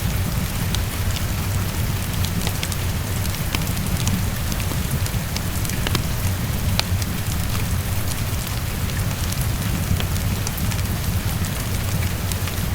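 Heavy rain pattering against a window over a steady low rumble, mixed with a wood fire crackling in scattered sharp pops.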